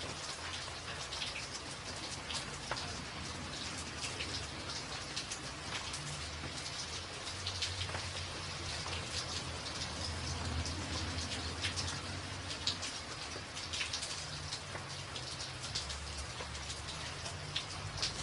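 Steady rain falling on a tin roof: a constant hiss with many sharp individual drop ticks on top, and a low rumble underneath that swells slightly midway.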